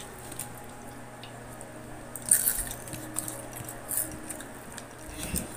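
Bites and chewing of a crispy fried cheese stick in a wrapper, with a few short crunches, the loudest about two seconds in.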